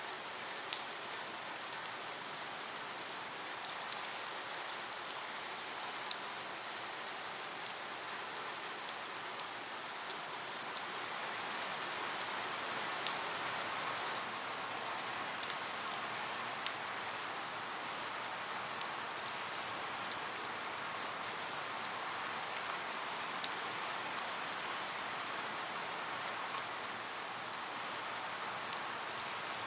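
Steady rain: an even hiss with frequent sharp drips tapping on a hard surface.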